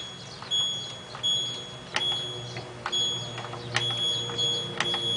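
Washing machine control panel beeping as its buttons are pressed to step through the spin-speed settings: a run of short high electronic beeps, roughly one a second, one held a little longer, with a few sharp button clicks among them.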